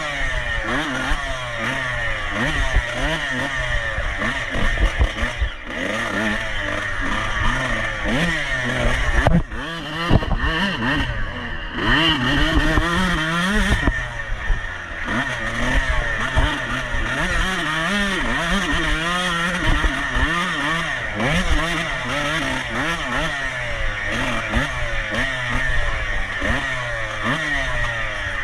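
Off-road motorcycle engine ridden hard at race pace, its pitch revving up and falling back again and again, every second or so.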